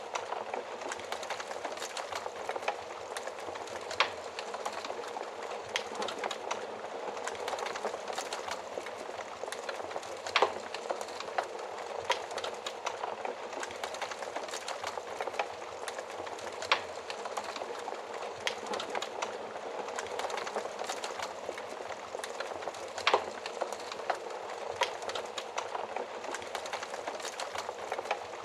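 Wood fire crackling in an oven: a steady hiss of flames with many small crackles and a few louder sharp pops spaced several seconds apart.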